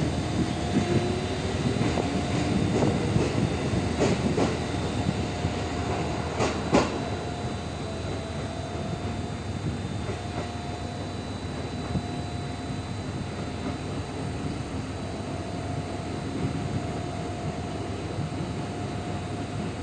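A JR 205 series electric train pulling out of the station. A faint motor whine rises in the first couple of seconds, and the wheels clack over rail joints in pairs, about four seconds in and again at about six and a half seconds, over a steady rumble.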